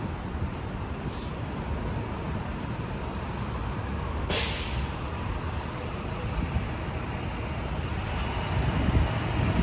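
Street traffic noise, a steady low hum of passing vehicles. About four seconds in comes a short, sharp hiss, and a vehicle passes louder near the end.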